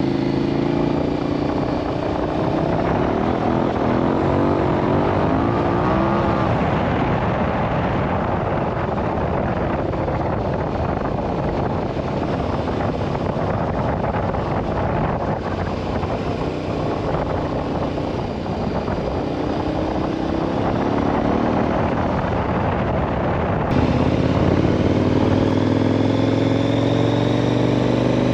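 2018 KTM 1090 Adventure R's 1,050 cc LC8 V-twin engine running while the bike is ridden, its pitch rising and falling with the throttle. Near the end it turns abruptly louder and pulls harder.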